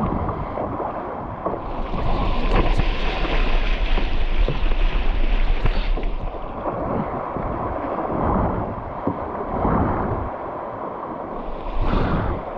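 Water rushing and splashing around a kayak, with a brighter hissing rush for a few seconds early on and a short surge near the end. Wind buffets the action camera's microphone throughout.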